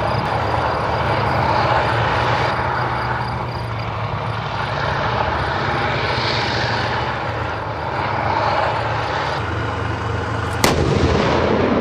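Military jet engine noise: a continuous drone with a steady low hum that swells and eases. A single sharp crack comes about ten and a half seconds in, after which the noise is louder.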